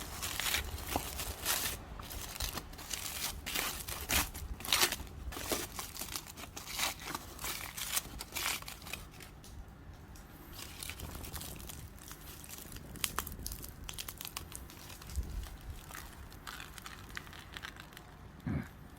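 Close crinkling, crunching and tearing sounds, thick for the first half and then sparser.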